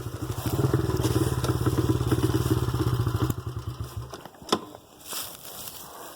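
Dirt bike engine idling with an even pulse, then shut off about four seconds in. A single sharp click follows shortly after.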